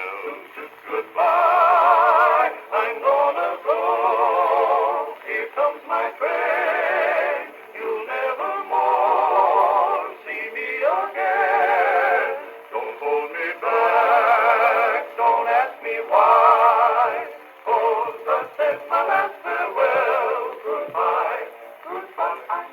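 Instrumental break on an old 78 rpm country record: a lead instrument plays long notes with heavy vibrato over a plucked rhythm accompaniment, with the muffled, narrow sound of a shellac disc.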